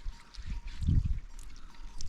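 Water pouring and trickling, with irregular low thuds and faint clicks of handling.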